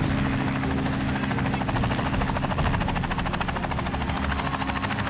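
Helicopter running steadily: an engine hum under rapid, even rotor-blade beats.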